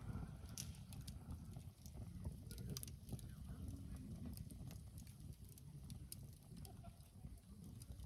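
Wood campfire burning, with scattered small crackles and pops over a low steady rumble.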